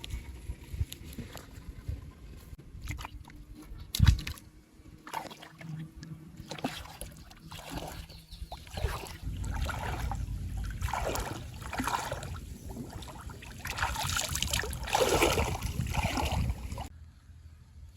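Water sloshing and splashing, irregular and louder in the second half, with a sharp knock about four seconds in.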